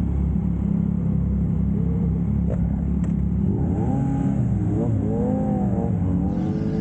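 Yamaha MT-09's three-cylinder engine with a Yoshimura R11 exhaust running steadily while the motorcycle is ridden, with a constant low engine drone.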